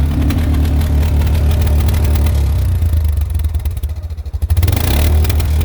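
ATV engine running steadily under way, with a quick even pulsing; it dips and wavers a little past the middle, then picks back up.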